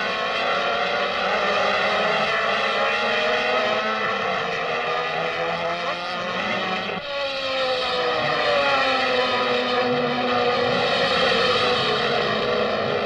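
Racing car engines running hard, their pitch rising and falling as they rev through the gears. There is an abrupt cut to another stretch of engine sound about seven seconds in.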